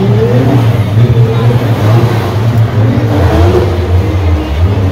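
Car engine running hard, its low note dropping lower about three seconds in.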